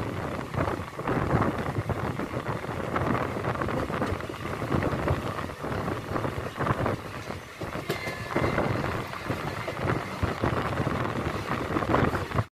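Passenger train running, heard from an open carriage window: a steady rumble and irregular clatter of wheels on rail, mixed with rushing air.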